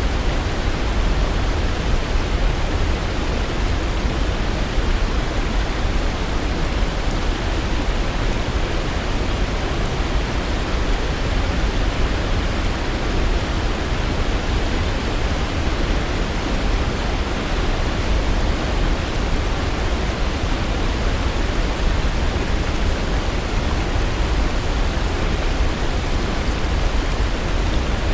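Waterfall rushing: a dense, steady wash of falling water, heaviest in the low rumble, with no birds or other events standing out.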